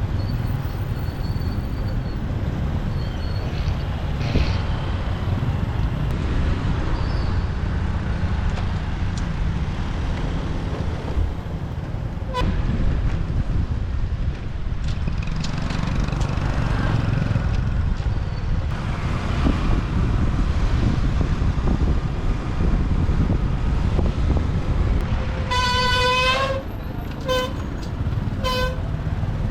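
Steady low wind and road rumble of a motorbike ride in traffic, with a vehicle horn near the end: one honk of about a second, then two short toots.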